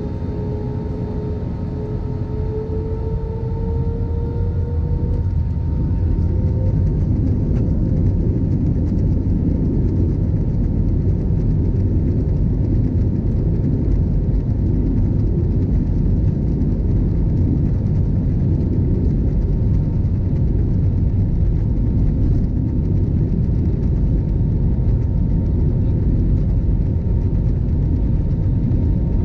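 Airbus A320 jet engines spooling up: a rising whine over the first few seconds while the rumble grows louder, then a steady loud rumble at takeoff power.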